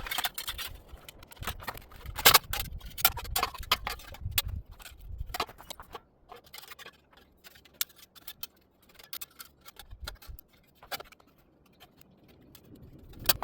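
Copper wire being threaded through and wrapped around a forged metal bird bath: a run of sharp clicks, taps and light scrapes of wire and metal, busy for the first half and sparser after about six seconds.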